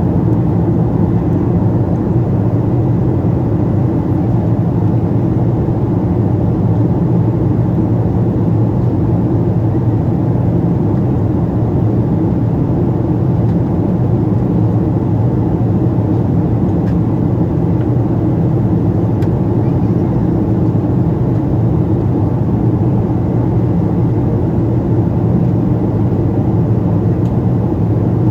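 Steady in-flight cabin noise of a Boeing 777-200: a constant low rush and engine hum with no change.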